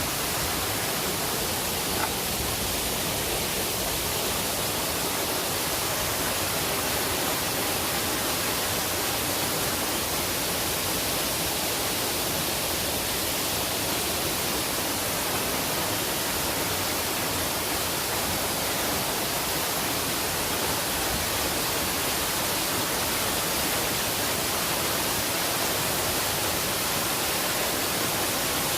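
Waterfall of about 20 m pouring into its pool, a steady rushing of falling water with no change in level.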